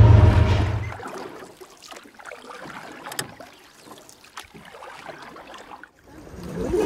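BNSF freight train's diesel locomotives rumbling past with a steady low engine drone, which fades out about a second in. Softer wind and river noise with a few light knocks follows, and music starts near the end.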